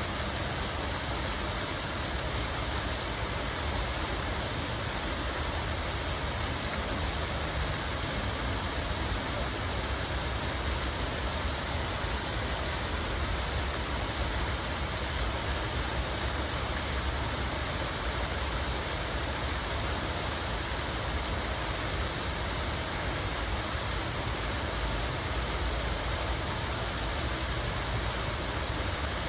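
Running water in a park's fountain or cascade: a steady, even rush with a low rumble underneath.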